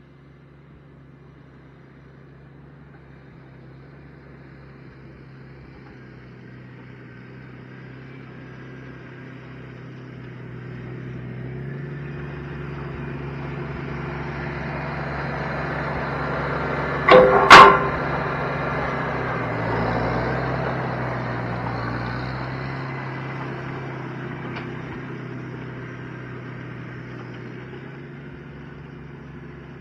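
A vehicle engine running steadily, growing louder toward the middle and then fading. Near the loudest point come two short horn toots about half a second apart.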